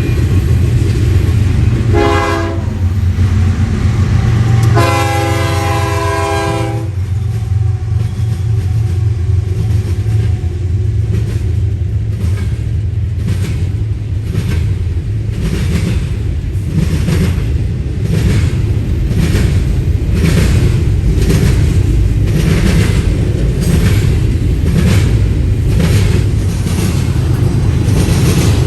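A passing freight train: the diesel locomotive's air horn sounds a short blast, then a longer one, over a heavy low rumble. After that come steady, evenly spaced clicks of wheels over rail joints as the cars roll by.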